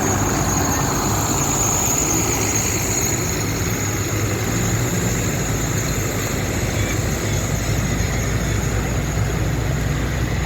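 Tractor engines running steadily in a low, continuous rumble, with a thin steady high whine above it.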